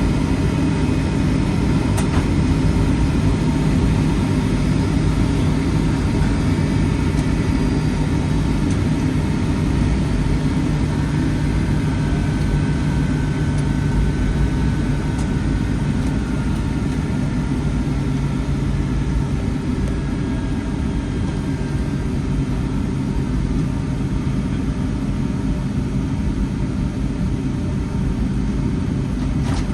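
Steady low rumble of jet engine and airframe noise inside the cabin of a Boeing 757-300, heard from a window seat while the airliner taxis. The noise holds level throughout, with no spool-up.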